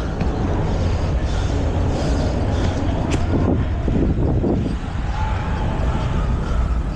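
Steady rumble of wind on the microphone mixed with street traffic noise while riding, with a short swell of passing vehicle sound about halfway through and a sharp click about three seconds in.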